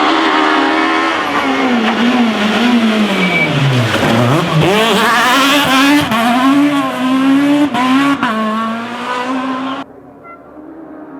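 Rally car engine at full stage pace close by, its pitch swinging up and down through throttle lifts and gear changes, falling to its lowest about four seconds in before climbing again as the car accelerates. Near the end the loud engine cuts off suddenly, leaving a fainter engine.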